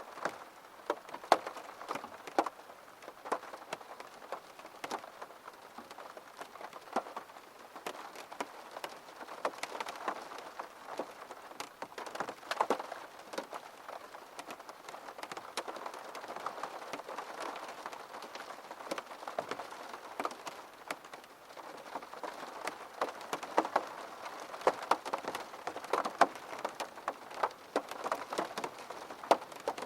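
Steady gentle rain with many separate drops striking a surface, a few distinct taps a second over the soft hiss.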